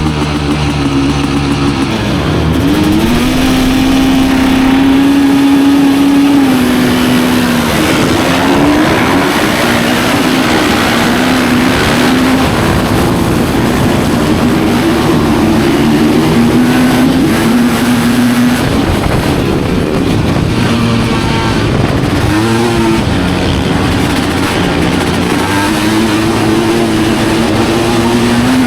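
Studded ice-racing motorcycle engine at racing speed. It winds up about two seconds in, holds a high pitch for a few seconds, then repeatedly falls and climbs again as the throttle is backed off and reopened.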